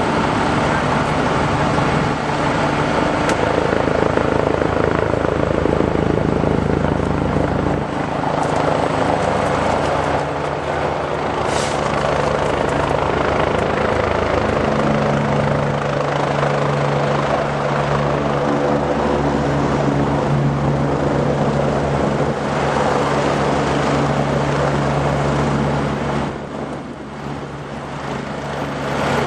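Air ambulance helicopter running close by, a loud steady rotor and engine drone that eases off slightly near the end.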